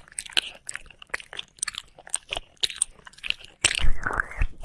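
Close-miked wet mouth sounds of ear-licking ASMR: irregular sticky clicks, smacks and licks, with a louder cluster of smacking near the end.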